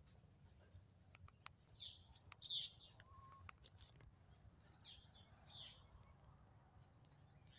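Faint bird chirps: two pairs of short, high calls, the loudest about two and a half seconds in. A few light clicks sit over quiet outdoor background.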